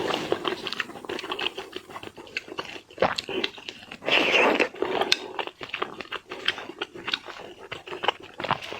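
Close-miked eating of raw seafood: wet chewing and biting with many sharp clicks and crunches, and a denser, louder burst of mouth noise about four seconds in.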